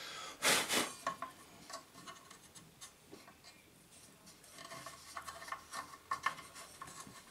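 Hand work on a miter saw being taken apart: one loud scrape about half a second in, then light clicks and rattles of parts being handled, busier in the second half.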